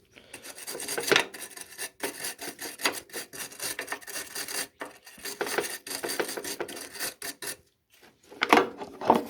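Hand work on a lawn mower deck: irregular metal scraping, rubbing and clinking as parts and tools are handled, with a short pause shortly before the end.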